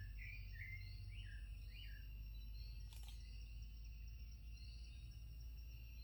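Forest birds singing: a quick run of short whistled notes in the first two seconds, and another bird's high arched notes repeating every second or so throughout. Beneath them is a steady high hum and a low rumble, with a single click about three seconds in.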